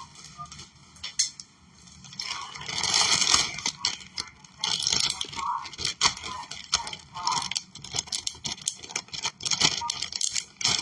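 Almonds clicking and rattling as they are tipped into a frying pan, with scraping and rustling among many sharp clicks.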